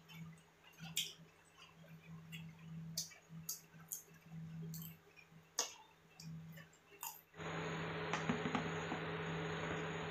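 Close-up eating sounds: fried snacks being bitten and chewed, with sharp wet mouth clicks. About seven seconds in, a steady hiss starts abruptly and holds to the end.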